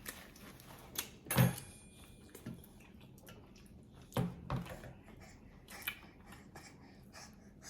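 Eating a thick peanut butter and jelly sandwich: a scatter of short, sticky mouth clicks and soft knocks. The loudest comes about a second and a half in, and another pair comes a little past four seconds.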